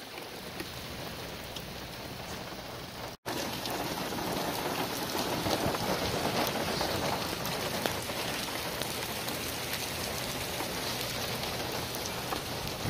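Heavy rain pouring down on wet pavement and parked cars: a steady, dense hiss of drops. It cuts out for a moment about three seconds in, then comes back a little louder.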